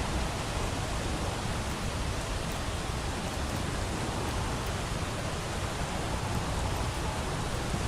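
Steady hiss of rain, with faint scattered crackles of a fireplace.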